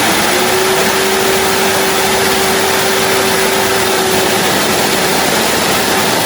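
Shiwoshi X3PRO-T industrial vacuum cleaner running: a loud, steady rush of air with a single motor whine that fades out a little over four seconds in.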